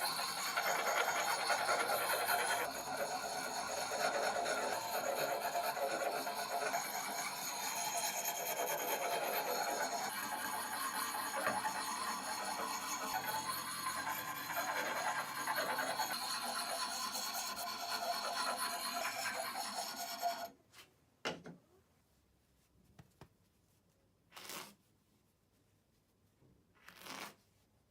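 Axe blade being honed on a wet sharpening stone: continuous scraping and rubbing strokes, then after an abrupt cut a few separate short strokes with quiet between them.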